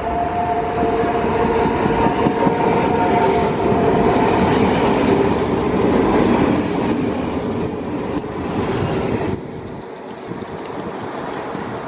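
A train running past on the rails, a loud rumble with several steady whining tones over it in the first few seconds. The sound drops away suddenly about nine seconds in.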